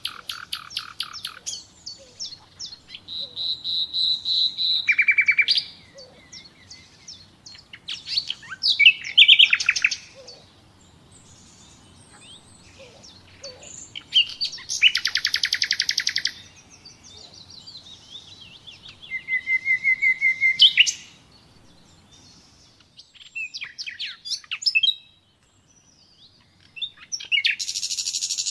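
Common nightingale singing: a string of varied phrases of fast repeated notes, trills and clear whistles, each lasting one to three seconds and separated by pauses, the longest pause about halfway through.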